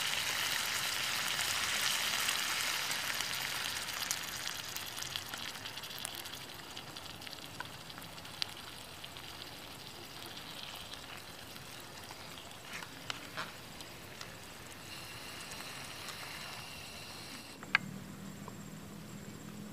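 Food sizzling in a frying pan, loudest at first and dying down over several seconds to a quieter hiss, with scattered light ticks and one sharp click near the end.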